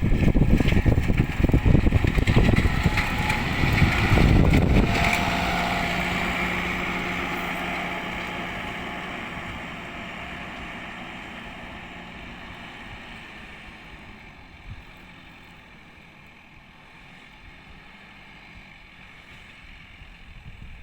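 Antonio Carraro compact tractor engine running, loud and rumbling for the first few seconds, then a steady engine note that fades evenly as the tractor moves away.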